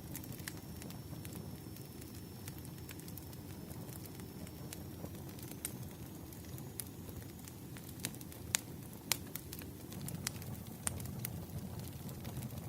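Wood fire crackling: irregular sharp pops and snaps over a low steady rumble of burning firewood, with two louder pops a little past the middle.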